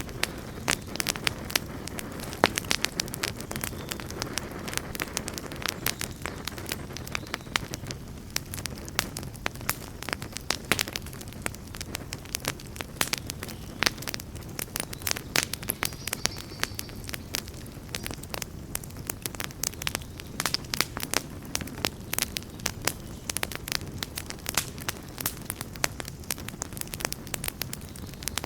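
Campfire burning steadily, with a low rush of flame under many sharp, irregular crackles and pops of burning wood.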